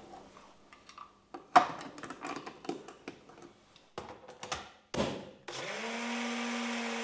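Clattering and knocking as things are handled, then a small electric kitchen appliance motor switches on about five and a half seconds in, spinning up quickly to a steady whir.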